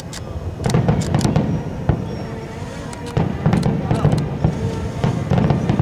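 Aerial fireworks display: a run of sharp bangs and crackles, with three waves of heavy booming bursts about a second in, past the middle and near the end.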